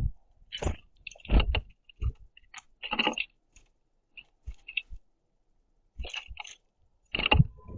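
Black-capped chickadee picking through and pecking at seeds on a wooden platform feeder close to the microphone: a string of short, irregular clicks, rustles and crunches, with a pause around five seconds in.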